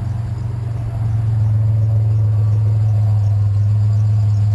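Truck engine running with a steady low drone, a little louder from about a second in.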